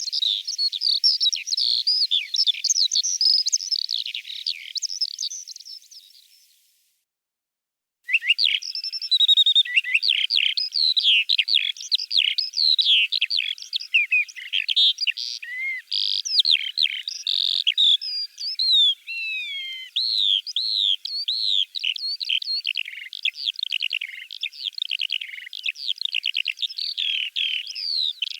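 Eurasian skylark singing its long, unbroken song of rapid trills, warbles and whistles. The song fades out about six seconds in. After a second or so of silence it starts again abruptly and pours on without pause.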